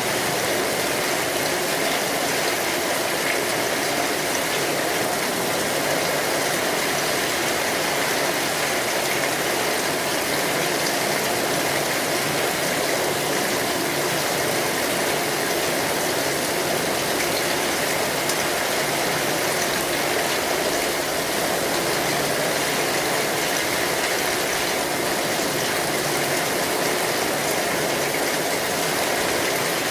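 Steady rain falling on an umbrella, an even, unbroken patter of drops.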